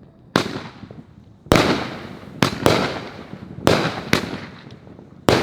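Consumer firework mortar shells going off: about seven sharp bangs at uneven intervals, two of them in quick pairs, each dying away over about a second.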